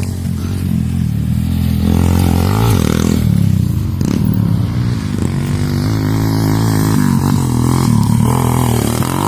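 Motocross bike engines revving, the pitch rising and falling again and again as the throttle opens and closes.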